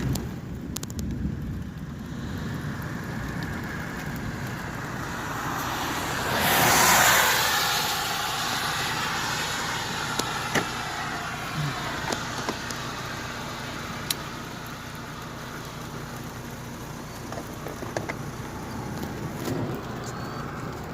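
A car passing on a wet road, its tyre hiss swelling to a peak about seven seconds in, then fading slowly.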